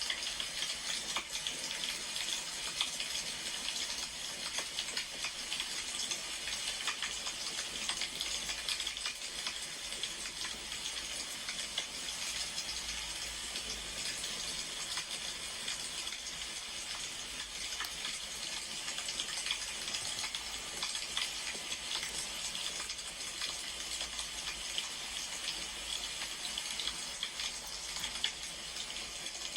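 Wood fire crackling: a steady hiss with frequent small pops and snaps throughout.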